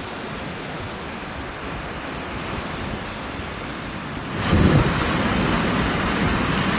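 Sea waves washing onto a beach, a steady rush of surf with wind buffeting the microphone. About four and a half seconds in, the sound turns abruptly louder and rougher, with a gusty low rumble.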